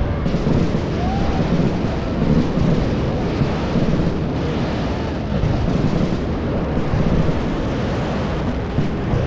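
New Year fireworks display with many bangs going off close together, blending into a steady, dense rumble in which no single blast stands out.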